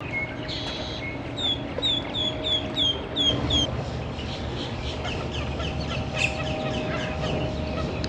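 A bird calling over steady outdoor background noise: a short buzzy call, then a quick run of about eight short, falling whistled notes, followed by fainter scattered chirps.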